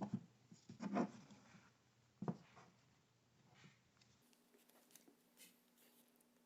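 A few short rubbing and tapping sounds, then faint ticks: an engine air filter and a tape measure being handled while the filter is measured.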